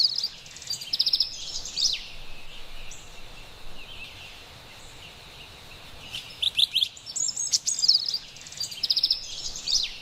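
Carolina wren singing: a burst of rapid, repeated bright notes at the start and another from about six and a half seconds in, over a faint steady forest hiss.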